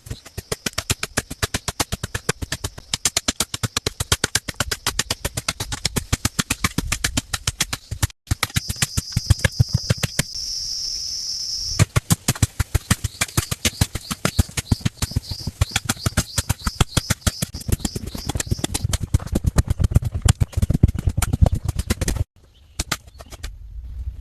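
Rapid, evenly repeated hard strikes of a hand tool at about five a second, stopping briefly twice, with a high insect or bird trill behind them for a few seconds.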